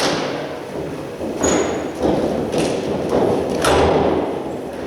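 About five heavy thuds roughly half a second apart on a wrestling ring, bodies or feet hitting the canvas-covered ring floor, over the noise of the arena crowd.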